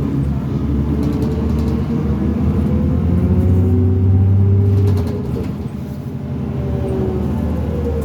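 Cummins ISL diesel engine of a New Flyer D40LF transit bus pulling under acceleration, its low note slowly climbing and loudest around four seconds in. About five seconds in it drops suddenly and settles at a lower, steady level.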